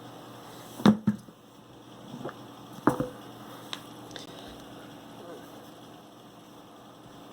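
Two sharp knocks about two seconds apart, the first about a second in, followed by a few fainter clicks.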